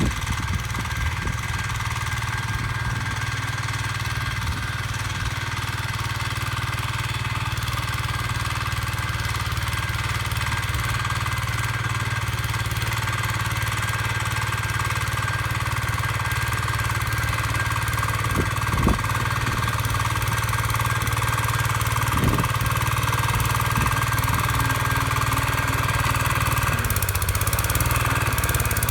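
Small tractor's engine running steadily while digging up garden ground, with a few brief knocks about two-thirds of the way through; its note drops slightly near the end.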